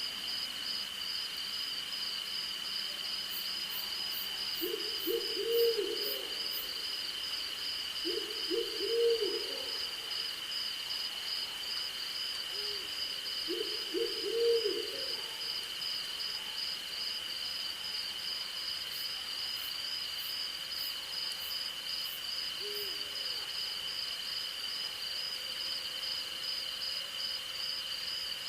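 An owl hooting in short runs of several low notes, three times a few seconds apart with a faint single hoot later, over a steady chorus of night insects: a fast pulsing high trill and a lower continuous one.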